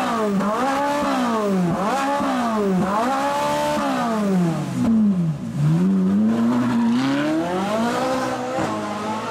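A supercar engine revved up and down repeatedly. Its pitch climbs and drops about six times, with a longer, slower climb and fall in the second half before it settles.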